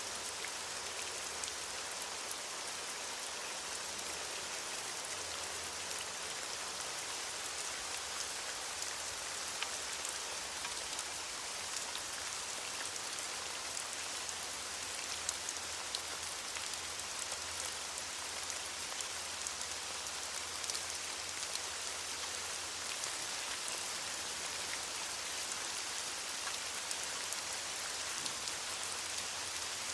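Steady rain pattering on leaves, a dense even hiss with many small drop ticks.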